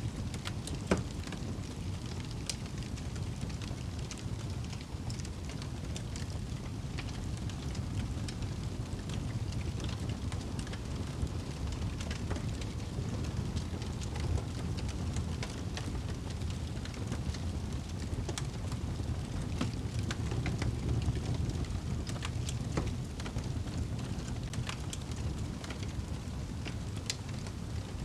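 Fireplace fire crackling: a steady low rumble of burning with scattered sharp pops and snaps, the loudest about a second in.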